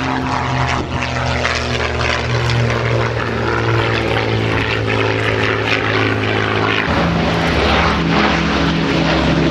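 Avro Lancaster's four Rolls-Royce Merlin piston engines droning as the bomber flies by, with the engine note changing about seven seconds in.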